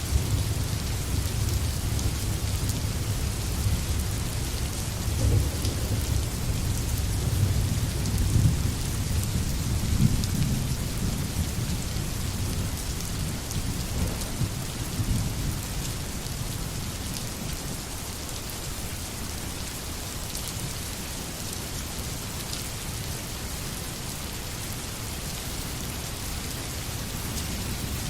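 Steady heavy rain hissing, with a low rolling rumble of thunder through the first half that fades away about halfway through, leaving the rain alone.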